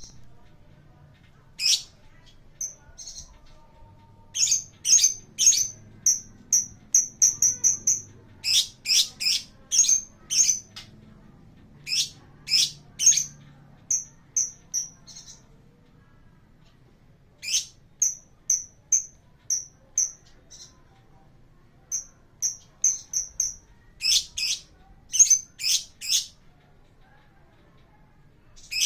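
Lovebird chirping: runs of short, shrill, high-pitched chirps, some in quick trills of several notes a second, broken by pauses of a second or two.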